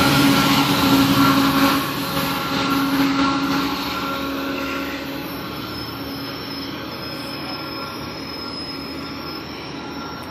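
GO Transit commuter train running on the line, its sound steadily fading, with a faint steady high-pitched wheel squeal from about halfway.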